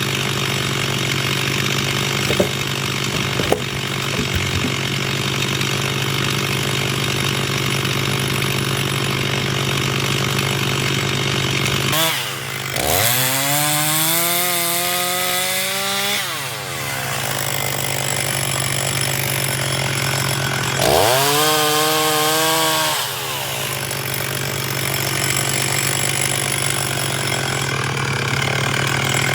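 Two-stroke chainsaw cutting firewood, running steadily under load. Twice, about twelve seconds in and again about twenty-one seconds in, its pitch climbs as the engine revs up high.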